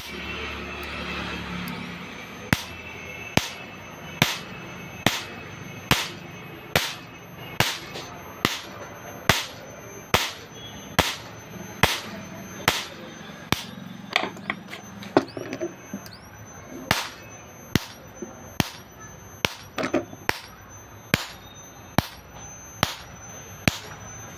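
Jhatka machine (electric fence energizer) firing its high-voltage pulses: a sharp snap repeating evenly a little more than once a second.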